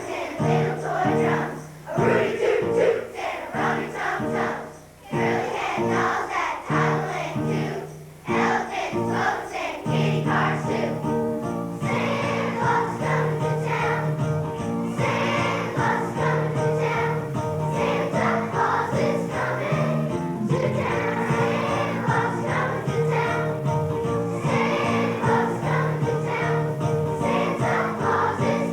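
Children's choir singing with instrumental accompaniment, with brief pauses about five and eight seconds in, then singing on without a break.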